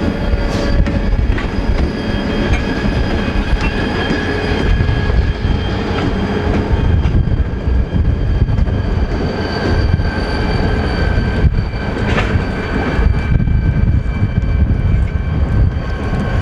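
Train rolling on the track with a steady heavy rumble. Wheels click now and then over the rail joints, and a faint high squeal comes from the wheels.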